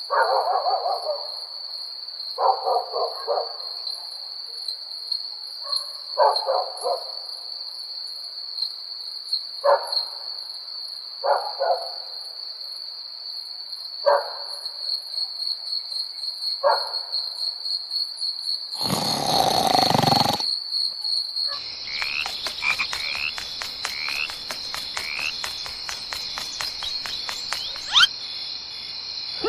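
Frogs croaking in short rattling calls every second or two over a steady high insect trill. About two-thirds of the way in comes a loud, brief rush of noise, and then rapid clicking with a few short chirps over the trill.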